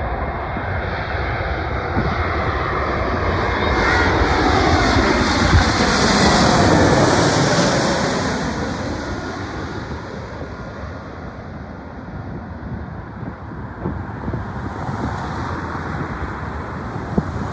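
Jet engines of a Delta Airbus A321-200 passing close by, the noise swelling to a peak about six to eight seconds in, with a sweeping whoosh, then fading away.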